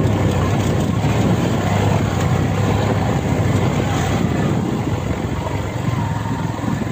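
An engine running steadily, a low hum under a constant rushing noise.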